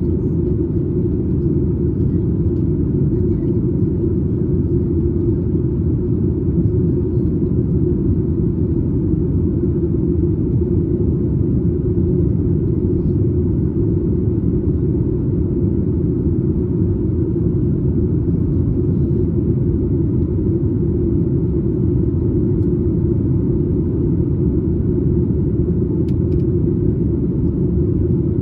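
Steady low rumble of a Boeing 737 MAX 8 in flight, heard inside the cabin: its CFM LEAP-1B engines and the airflow over the fuselage, even and unchanging.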